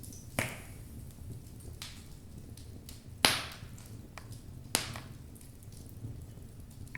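Wood fire burning in a fireplace: logs crackling over a low, steady rumble of flame. Three sharp pops stand out, the loudest about three seconds in, with smaller ticks between them.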